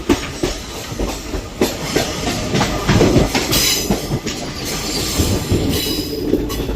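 Passenger train running on the track: a steady rumble with irregular clacking of the wheels over rail joints. Brief high-pitched wheel squeals come in a little past the middle.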